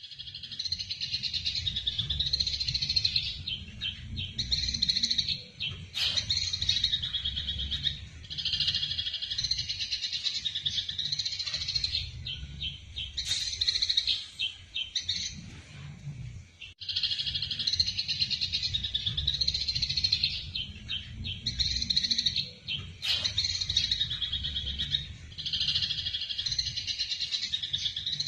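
Eurasian tree sparrows in a fast, dense chatter of chirps, the agitated calling of sparrows fighting. It comes in bouts of a few seconds with short breaks, over a low background rumble.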